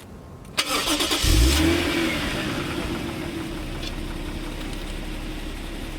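Toyota Soarer's 1JZ twin-turbo straight-six starting. The starter cranks briefly, and the engine catches about a second in with a short rev flare. It then settles into a steady idle.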